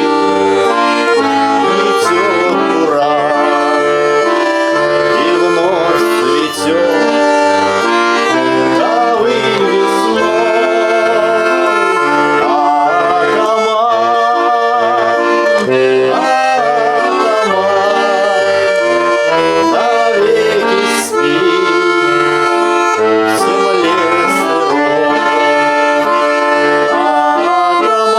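Accordion playing a folk tune: a melody over chords and bass that change in blocks.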